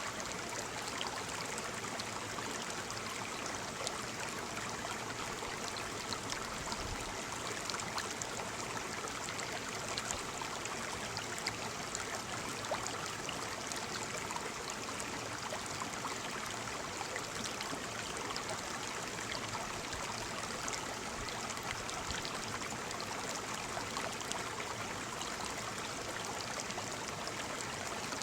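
Waterfall: a steady rush of falling water with small splashes and drips.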